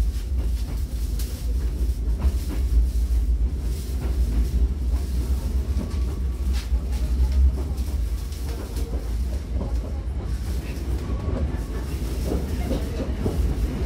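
Hankyu 9000-series commuter train running, heard from inside the car: a steady low rumble with scattered clicks of the wheels over rail joints.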